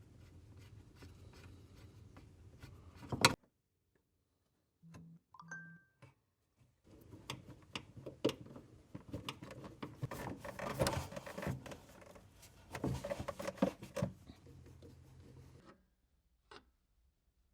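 Hoses, fittings and electrical connectors being worked loose by hand and with tools: scattered clicks, knocks and rubbing. There is a sharp click about three seconds in, then a brief silence, then a busier stretch of handling noise.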